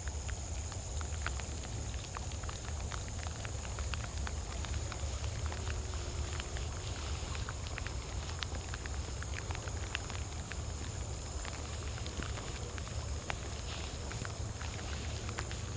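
Outdoor rural ambience: wind rumbling on the microphone, a steady high insect drone, and scattered light ticks throughout.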